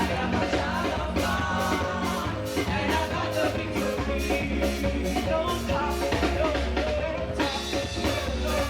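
Live praise and worship music from a church band, with a steady drum beat and singing voices.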